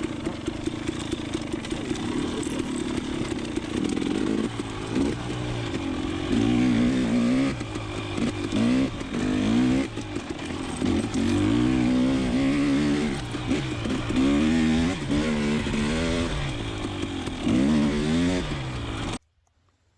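KTM 300 XC TPI single-cylinder two-stroke dirt bike engine being ridden on a trail: fairly steady for a few seconds, then revving up and down over and over as the throttle is worked. The sound cuts off abruptly just before the end.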